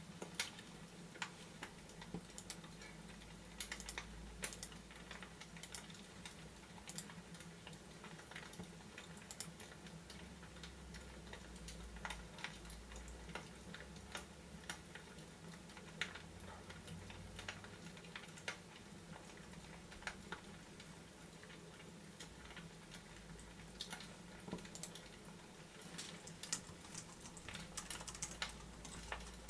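Typing on a computer keyboard: irregular light key clicks, with a low steady hum underneath.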